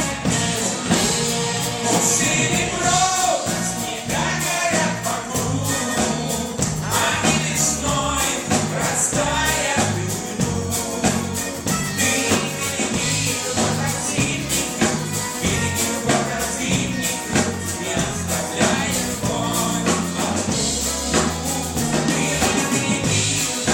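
A live pop band playing a song: a singer over a steady beat and a bass line.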